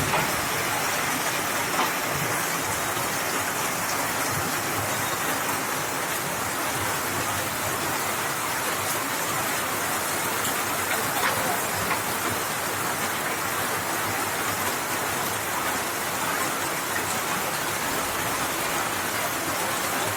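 Heavy rain pouring down and drumming on surfaces, a dense, steady hiss.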